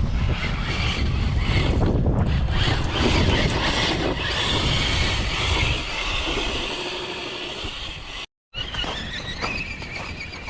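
Radio-controlled car running flat out, its motor and drivetrain noisy over churning tyres. After a sudden cut near the end, another RC car's high motor whine rises and then holds steady.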